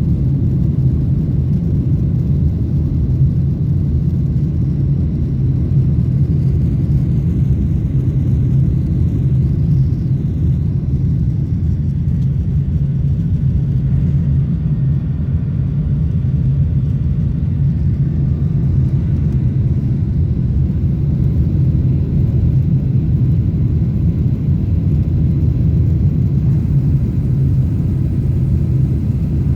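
Airbus A320 jet engines and airflow making a steady, loud low rumble during takeoff.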